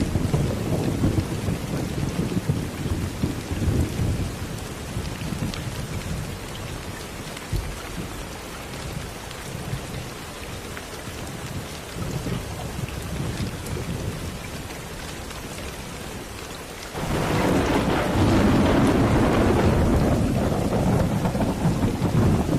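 Steady rain with rolling thunder. A low rumble dies away over the first dozen seconds, then a new loud thunder peal breaks in suddenly about seventeen seconds in and keeps rumbling.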